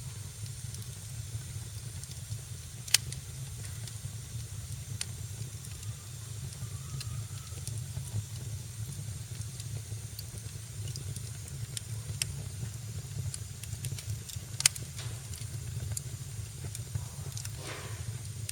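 Wood fire in a fireplace crackling: a steady low rumble of flames under a soft hiss, with scattered sharp pops. The two loudest pops come about 3 and 15 seconds in, and there is a brief sputtering hiss near the end.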